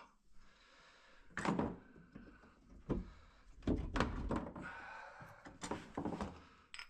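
Several separate thuds and knocks, about four, from a door and tools being handled while a reciprocating saw is fetched. There is no saw running.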